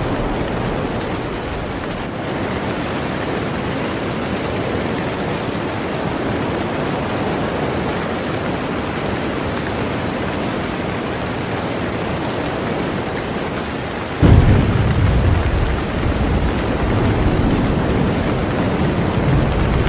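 Heavy rain falling steadily on a boat, a dense even hiss. About fourteen seconds in, a deep low rumble starts abruptly and continues under the rain.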